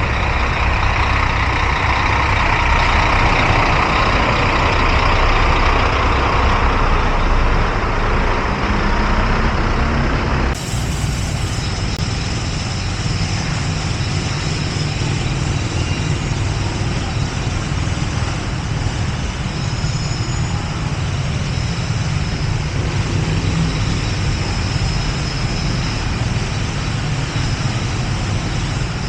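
Loud, steady mechanical rumble and noise, like running machinery or a vehicle, with no clear rhythm. It changes abruptly about ten seconds in and goes on slightly quieter after that.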